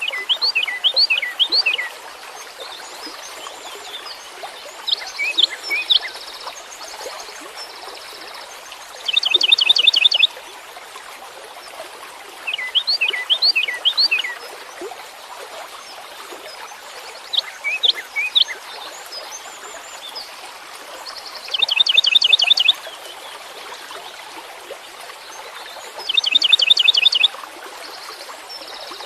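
A songbird singing in separate phrases every few seconds. Some phrases are a run of quick rising whistled notes; others are a fast, louder trill of repeated notes. A steady hiss runs underneath.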